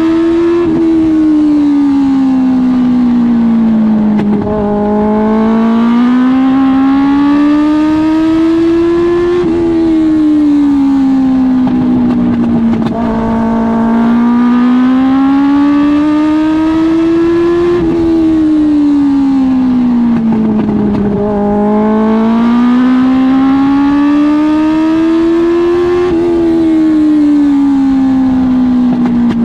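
Dwarf race car's Suzuki GSX-R1000 motorcycle inline-four engine, revving up through a straight and then dropping as the driver lifts into a turn, in a repeating cycle about every eight to nine seconds, three times over. The car could only use about half throttle in this race.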